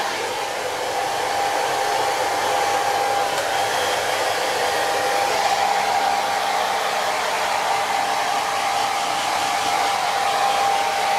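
Hair dryer running steadily, blowing air with a constant whine over its rush of air.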